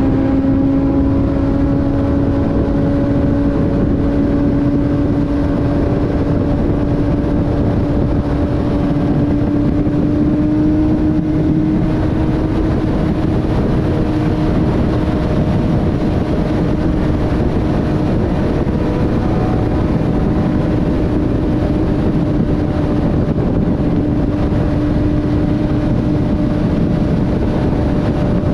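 Inline-four sportbike engine at a steady highway cruise, its pitch creeping up slightly over the first ten seconds and then holding, with heavy wind noise.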